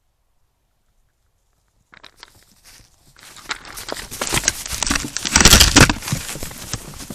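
Near silence for about two seconds, then elk hooves crunching and clicking in snow in quick, uneven steps. They grow louder to a peak a little past halfway, then ease off.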